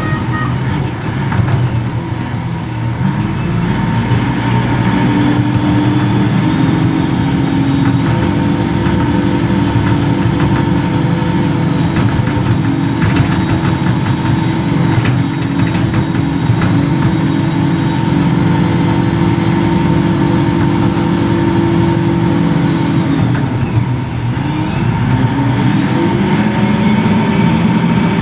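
Heavy diesel engine of a reach stacker running hard, with a steady whine over it: the revs climb about three seconds in, hold, then drop briefly and climb again near the end.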